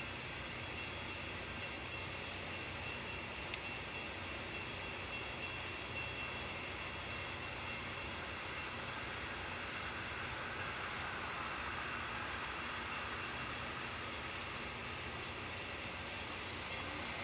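Metra bilevel commuter train cars rolling past at a grade crossing: a steady noise of steel wheels on rail, with one sharp click about three and a half seconds in.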